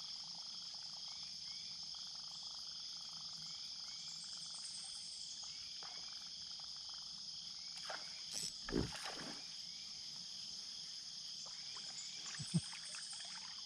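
Steady chorus of insects, a high unbroken buzzing, with a few soft knocks about eight to nine seconds in and a sharper one near the end.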